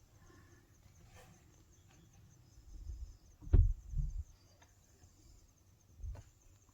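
Faint insects chirping steadily in the background, broken by low, dull thumps: a loud one about three and a half seconds in, a second just after, and a softer one near the end.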